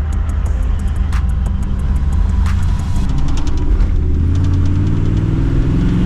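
Motor vehicle engine running with a deep rumble, its pitch climbing about two thirds of the way in as it accelerates, over a string of sharp clicks.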